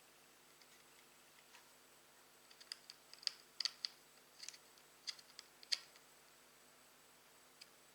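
A quick run of about a dozen small, sharp clicks and taps of hard parts being handled, starting about two and a half seconds in and stopping about three seconds later.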